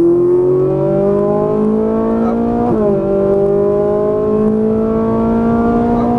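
Ferrari 458 Italia's V8 accelerating hard under full throttle, its pitch rising steadily. About three seconds in it drops abruptly on an upshift, then climbs again through the next gear.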